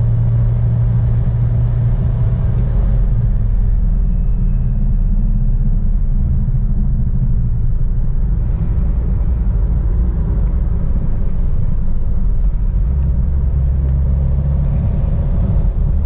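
Maruti Suzuki Baleno's 1.3 DDiS four-cylinder turbodiesel and road noise while driving at expressway speed: a steady low rumble whose engine note shifts about three seconds in and again near the thirteen-second mark.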